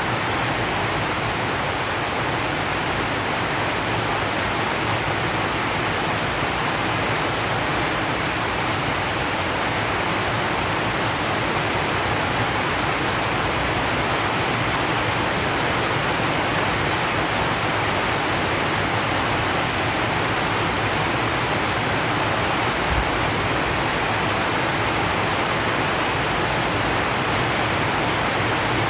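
Steady rain drumming on a corrugated zinc (tin) roof, a dense, even hiss with no breaks. One soft low thump comes about three-quarters of the way through.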